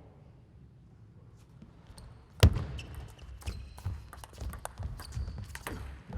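Table tennis rally: a loud sharp hit, then the celluloid-type ball clicking off bats and table a few times a second.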